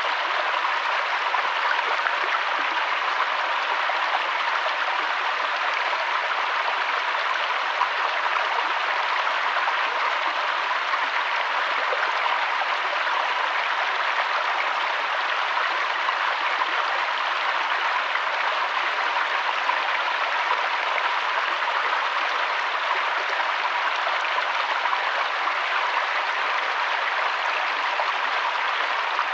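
River water flowing: a steady, even rush of running water with no breaks or changes.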